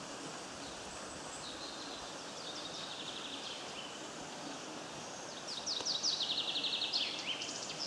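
A songbird singing two phrases of rapid trilled notes, the second one, about five seconds in, louder and ending in a quick falling flourish, over a steady rushing background noise.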